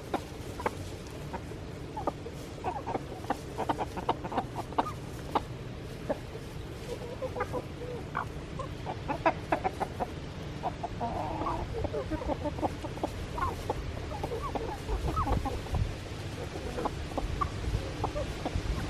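A flock of backyard chickens clucking, many short calls overlapping throughout. A low rumble joins in about three-quarters of the way through.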